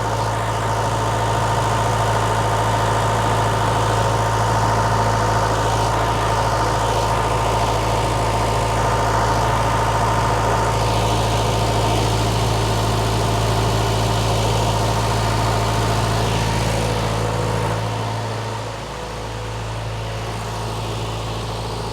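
Case 1840 skid steer's diesel engine running steadily, getting quieter about 18 seconds in and staying lower to the end.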